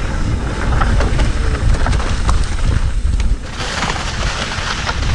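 Wind buffeting the microphone over the rattle of a mountain bike riding a rough dirt trail, with scattered sharp clicks and knocks from the bike.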